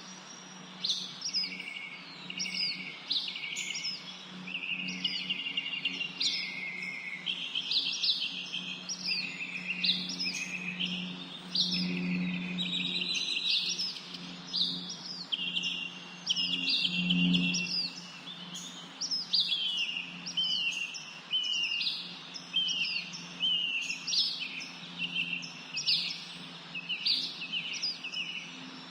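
Many small birds chirping and singing at once, a dense chorus of short repeated calls, downward sweeps and trills that goes on without a break. A steady low hum runs underneath.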